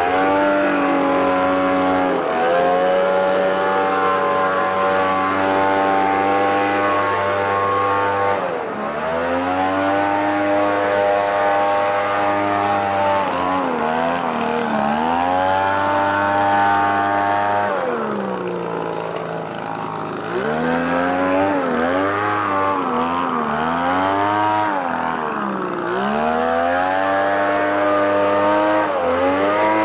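Sadko BLV-260G petrol blower-vacuum's small two-stroke engine running at high revs, dipping briefly about eight seconds in. It drops to idle around the middle, then is revved up and down repeatedly, roughly every two seconds, through the second half.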